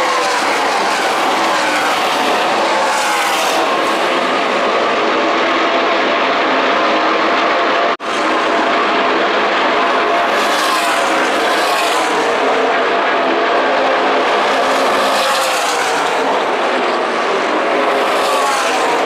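NASCAR Camping World Truck Series race trucks' V8 engines running at racing speed on the oval, their pitch rising and falling as the trucks accelerate and pass. The sound cuts out for an instant about eight seconds in.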